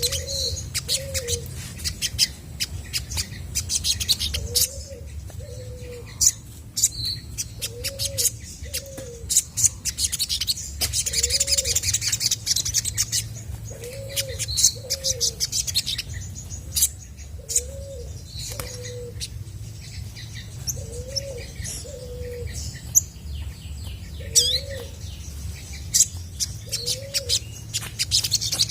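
Olive-backed sunbird singing a rapid run of high, sharp chirps and twitters. Underneath it, a dove coos a low two-note phrase over and over, about every two seconds.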